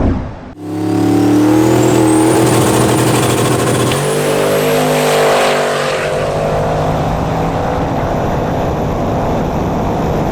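Turbocharged 347 Dart small-block V8 Mustang accelerating hard, its engine note rising with a high whine climbing above it. About four seconds in, the pitch steps down once, then the engine keeps pulling loudly.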